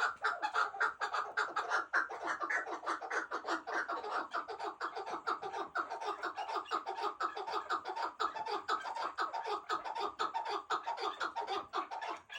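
White chukar partridge calling: a fast, unbroken run of short clucking notes, about five a second.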